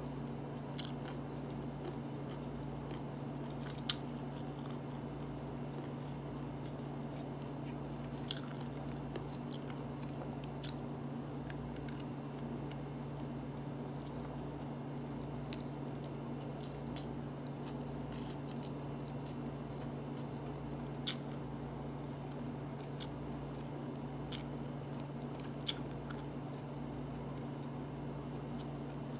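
A person eating rice and meat by hand: quiet chewing and mouth sounds with a few sharp clicks, over a steady low hum.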